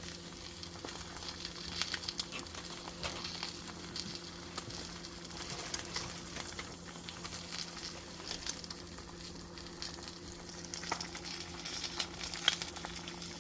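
Eggs frying in butter in a pan: steady sizzling with small crackles and pops, the pops busiest about two seconds in and near the end. A steady low electrical hum runs underneath.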